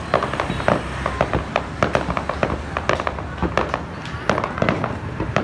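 Fireworks going off in a rapid, irregular run of sharp bangs and pops, several a second, as shells launched from the ground burst overhead.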